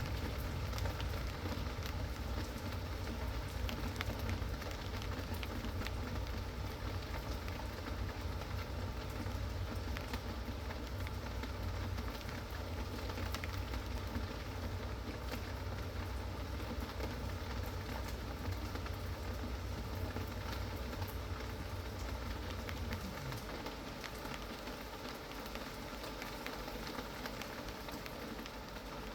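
Steady rain falling, with many individual drops ticking through it. A low rumble runs underneath and fades out about three-quarters of the way through.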